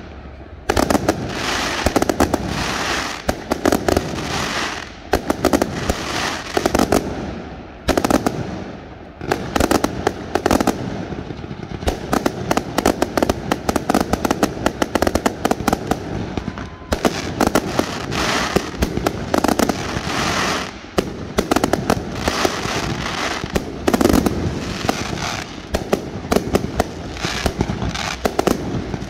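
Aerial fireworks shells bursting overhead: many sharp bangs in quick succession, almost without a break, with a few short lulls.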